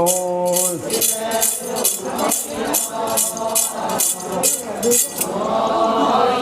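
Ponung song: a lead voice singing over a shaken metal jingle rattle that strikes about twice a second, the traditional accompaniment of the dance. Near the end the jingling stops and a chorus of many voices comes in, singing together.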